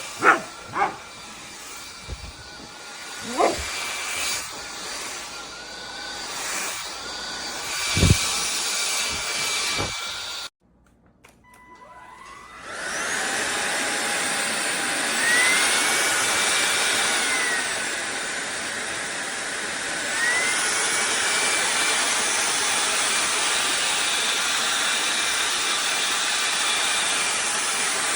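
A few short, sharp dog barks. Then, after a brief gap, a cordless stick vacuum cleaner's motor spins up and runs steadily, its whine gliding up and back down and then rising again.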